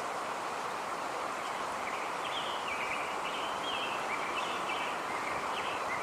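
Steady outdoor background noise, with faint high chirps repeating from about two seconds in.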